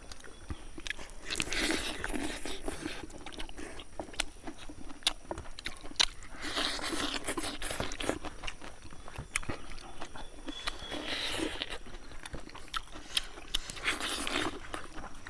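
Close-up chewing and crunching of smoked pork by several people eating with their hands, coming in stretches of a second or two with scattered small clicks in between.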